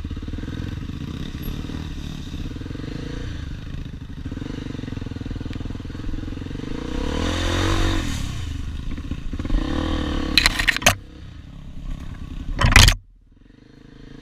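Dirt bike engine running, rising and falling in pitch as it revs about halfway through. A few sharp clattering knocks come near the end, and then the sound drops away suddenly.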